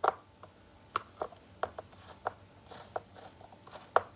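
Chainsaw chain and bar being handled by hand: a scatter of short metal clicks and light rattles as the loose chain is worked onto the bar's track and drive sprocket, with the sharpest click near the end.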